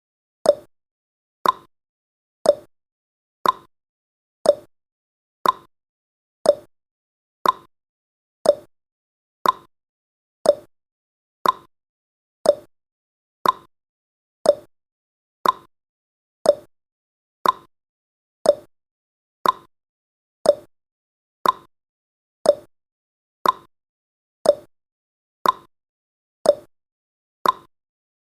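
Countdown timer's clock-tick sound effect: one short tick every second, alternating between a slightly higher and a slightly lower tick, like a tick-tock.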